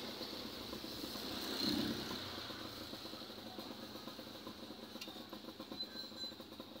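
Motorcycle engine idling, with a brief rise in revs about two seconds in before settling back and quieting slightly.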